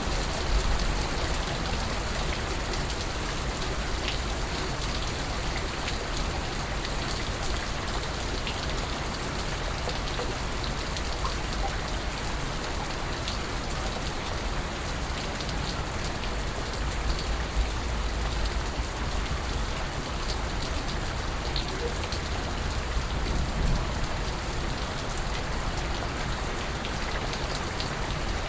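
Steady rain with individual drops ticking now and then through the even hiss, over a low rumble.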